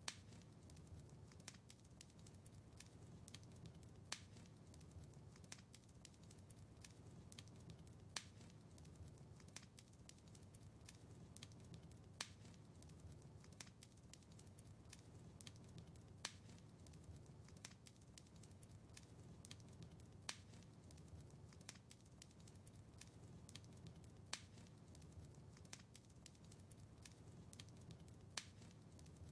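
Wood fire crackling faintly over a soft low rumble, with many small ticks and a sharper pop about every four seconds.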